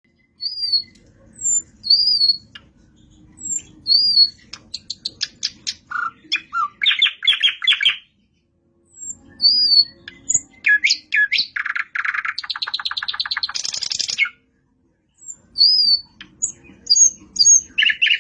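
Nightingale singing: clear whistled notes followed by fast, rattling trills, repeated in several phrases. The sound drops out completely twice, about halfway through and again near the end.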